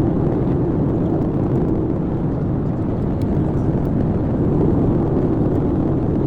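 Steady loud rumble of a Boeing 777 airliner heard from inside the cabin, the engines and airframe noise strongest in the low range, without a change in pitch.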